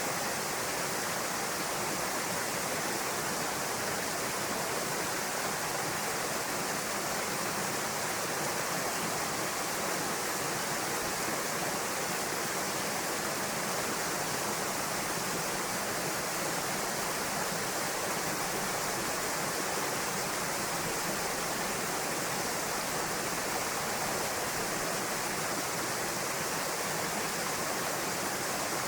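Small waterfall pouring into a rock pool: a steady, even rush of falling water with no change.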